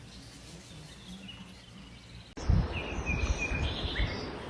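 Quiet room tone, then about halfway through an abrupt switch to outdoor sound: short bird chirps over a low rumbling noise.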